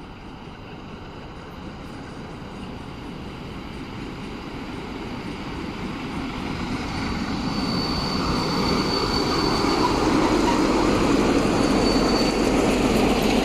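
060-DA diesel-electric locomotive's engine running and powering up, growing steadily louder over several seconds, with a thin high whine appearing partway through.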